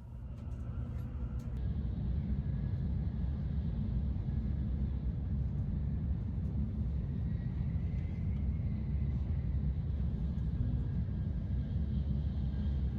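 Steady low rumble of a Shinkansen bullet train running at speed, heard from inside the passenger car, with a few light clicks in the first second or so.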